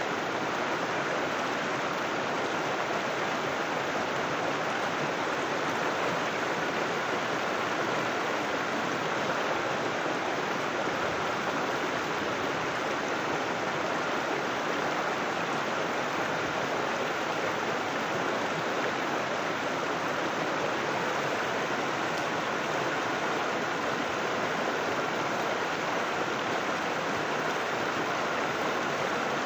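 River water flowing steadily, an even rushing hiss with no breaks or changes.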